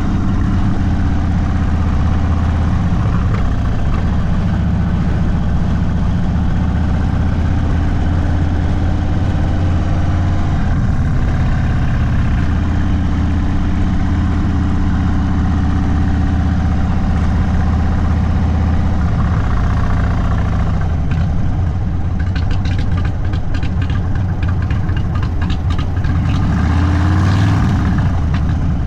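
Indian Sport Chief's Thunderstroke 116 V-twin through a Sawicki Speed aftermarket exhaust, running at low, steady revs in slow riding. About two-thirds of the way through it drops to a slower, more distinct pulsing beat, then revs up briefly near the end.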